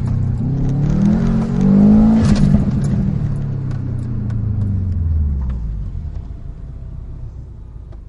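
Subaru WRX STI's turbocharged flat-four heard from inside the cabin, revving up hard under acceleration for about two seconds, then dropping in pitch and fading as the car lifts off and slows, much quieter from about six seconds in.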